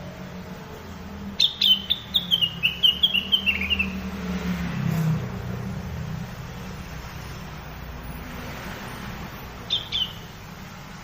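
Song of a cak wilis (rengganis) bird: a quick run of about a dozen short whistled notes stepping down in pitch over two seconds, then two more notes near the end. A low steady hum runs underneath.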